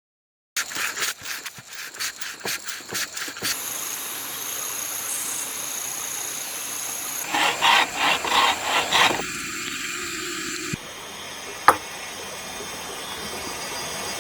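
A hand tool working wood in quick repeated strokes, about four a second, which gives way to a steady hiss. A second run of strokes comes about halfway through, and there is a single sharp click near the end.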